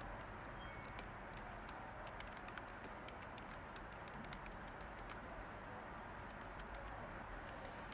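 Light typing on a computer keyboard: soft, irregular key taps over a steady background hiss.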